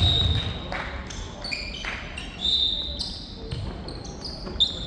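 Players' shoe soles squeaking on an indoor court floor, several short high squeaks one after another, with a few low thumps of footsteps and ball play.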